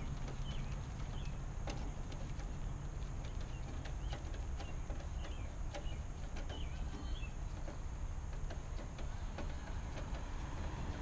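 Scattered light clicks and taps over a steady low rumble, with a few faint high chirps in the first several seconds.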